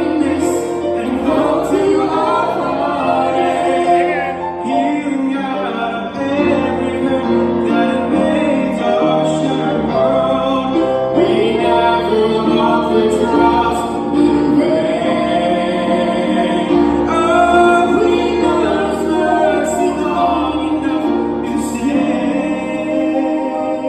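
A choir of mixed voices singing a gospel song with instrumental accompaniment.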